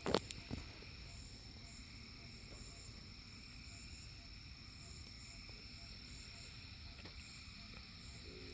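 Crickets trilling steadily with frogs calling, faint, with a few handling bumps in the first half-second. Right at the end a distant locomotive's five-chime K5LLA air horn begins its steady chord.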